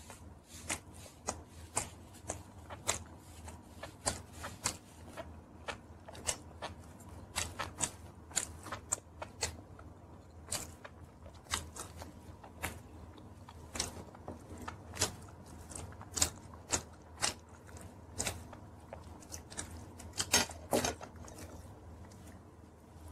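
Close-up eating sounds of a person chewing chicken wings, with wet mouth smacks and sharp clicks coming irregularly, a few a second. A louder cluster comes near the end.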